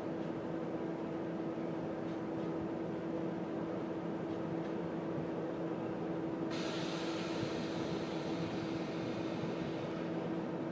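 Container freight train rolling past: a steady hum of wagon wheels on the rails with a constant drone. About six and a half seconds in, a hiss of higher noise suddenly joins it and continues.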